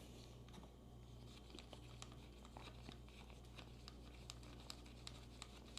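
Faint, scattered light clicks and taps of motorcycle parts and hardware being handled and fitted back on, over a low steady hum.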